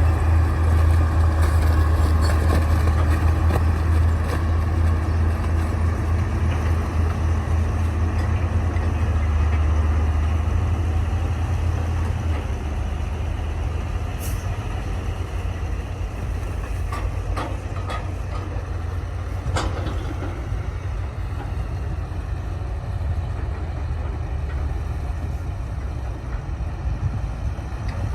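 Bulldozer's diesel engine running with a steady low drone, loudest for the first dozen seconds and then easing off. A few sharp knocks sound in the second half.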